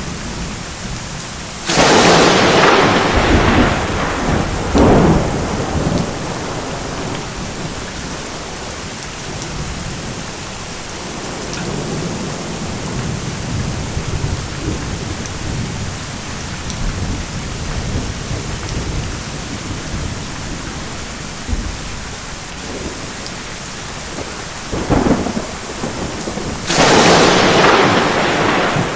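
Steady rain falling through a thunderstorm, with two sharp, loud thunderclaps, one about two seconds in and one near the end, each rumbling away over a few seconds, and lighter thunder rumbles between them.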